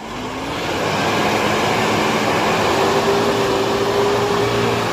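Pickup truck engine revving up and held at high revs under hard load, climbing a steep slippery hill. It builds over the first second, then holds steady and loud.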